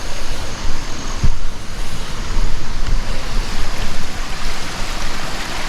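Loud, steady rushing of a stream flowing over rocks, with some low buffeting from wind on the microphone.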